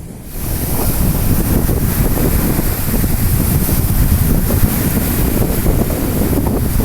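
Strong wind buffeting the microphone over stormy sea surf, a loud rumbling rush with no breaks. It jumps up sharply about half a second in.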